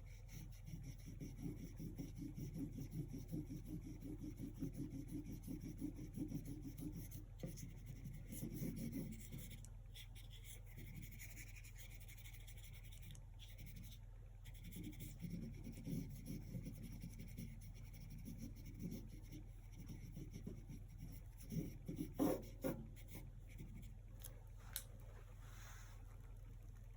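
A paintbrush scrubs acrylic paint onto canvas in quick back-and-forth strokes. The strokes come in several stretches with pauses between them, and there are a few sharp knocks near the end.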